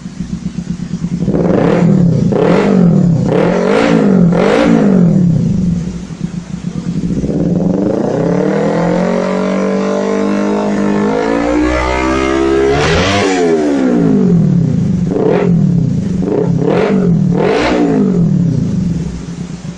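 Kawasaki Ninja 250R parallel-twin engine revved through an M4 Black slip-on exhaust silencer. It gives several quick throttle blips, then one long rev that climbs for about six seconds to a peak and drops back, then several more quick blips.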